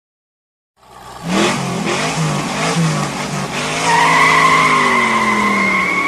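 Car engine revving with tyres squealing. It starts abruptly about a second in, and a high, steady squeal joins about four seconds in.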